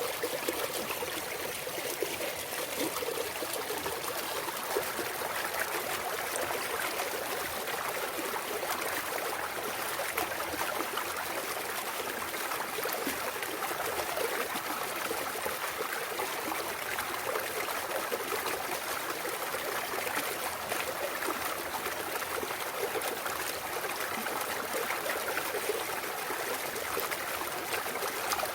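Clear mountain stream running and trickling over rocks: a steady flow of water with small splashes and gurgles throughout.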